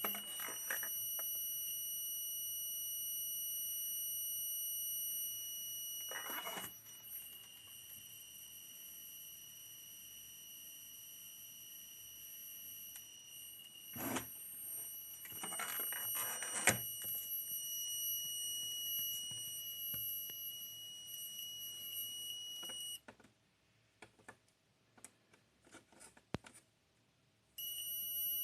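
LG W2243S monitor whistling: a steady high-pitched tone with higher overtones, the fault that it is being tested for before repair. It cuts off suddenly about 23 seconds in and comes back briefly near the end, with a few clicks and knocks along the way.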